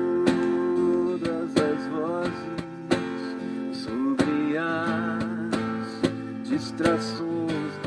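Acoustic guitar strummed in a worship song, with a sustained melody line held and bending over the chords.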